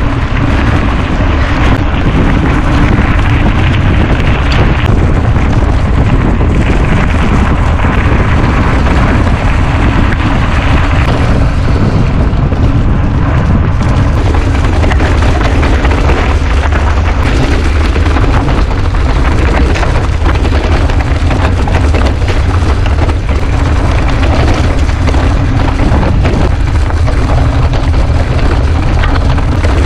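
Heavy wind buffeting and rumble on the microphone of a camera riding along on a mountain bike, with fine rattling from the bike over the trail.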